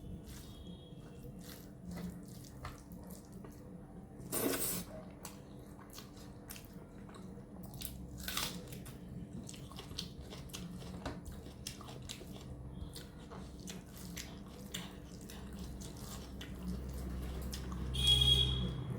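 Close-miked eating of chicken curry and rice: wet chewing with many small mouth clicks and smacks, a louder burst about four seconds in and another, the loudest, near the end.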